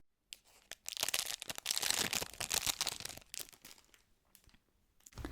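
Crinkling and rustling of handled packaging, dense for about two seconds from about a second in, then thinning to scattered light crackles.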